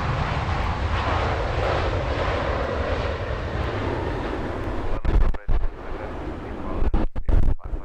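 Jet airliner engine noise, a loud steady rush. About five seconds in it gives way to heavy low wind buffeting on the microphone that cuts in and out abruptly.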